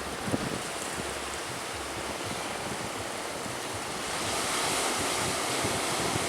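Sea waves rushing in strong wind, with wind buffeting the microphone; the rush swells louder about four seconds in.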